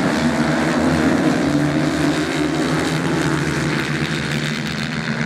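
Racing motorcycle engines running steadily with a continuous drone, as bikes race on a sand track.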